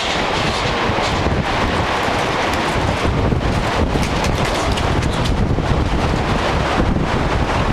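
Gale-force wind buffeting the microphone: a loud, steady rushing noise with a heavy low rumble and small gusts.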